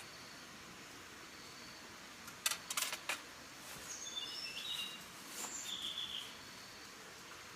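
A few sharp clicks about two and a half seconds in, then a bird chirping in short high calls for about two seconds, over a steady background hiss.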